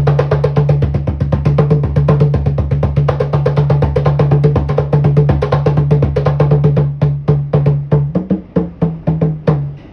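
A street performer's live percussion music: a fast, even stream of drum strikes over a steady low note, slowing to a few separate loud hits in the last two seconds before stopping.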